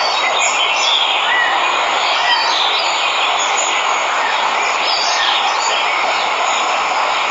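Steady rush of a waterfall, with birds chirping now and then over the water noise.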